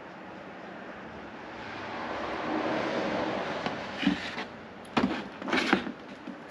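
Motor oil pouring from a quart bottle through a funnel into the engine's oil filler, a steady rush that swells and then fades as the bottle empties. This is followed by a few sharp knocks and clatters as the bottle and funnel are handled.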